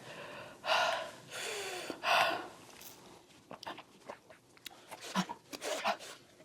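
A woman breathing hard through her mouth against a hot-sauce burn: two loud, sharp, hissing breaths about a second and a half apart near the start, then small mouth clicks and short softer breaths.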